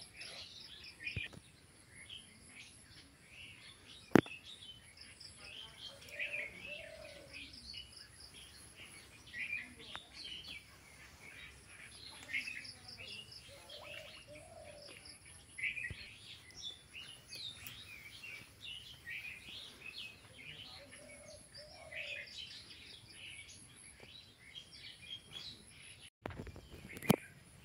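Small birds chirping and twittering continuously, with a lower curved call repeating about every eight seconds. A sharp click stands out about four seconds in, and another comes near the end.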